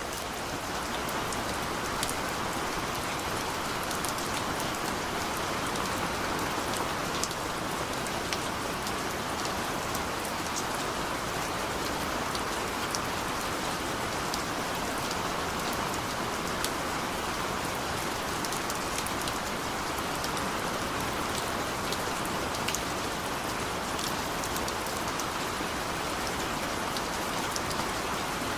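Steady rain falling on a hard surface, an even hiss with many distinct drop ticks scattered through it.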